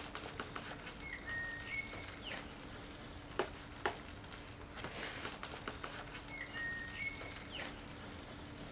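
A bird singing a short chirping phrase twice, about five seconds apart. Two sharp clicks fall in the middle, and a faint steady hum runs underneath.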